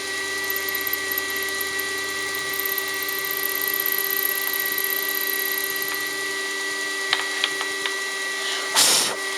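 Milling machine running, a steady whine made of several constant tones. A few light ticks come about seven seconds in, and a short rush of noise near the end.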